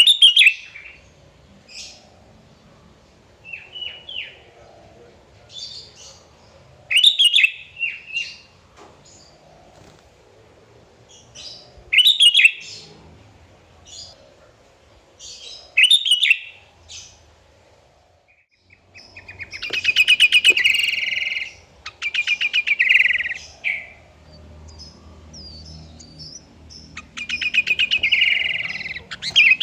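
Sooty-headed bulbul (kutilang) singing. Short phrases come every few seconds, then about two-thirds of the way in the bird breaks into a long run of rapid repeated notes, and does so again near the end.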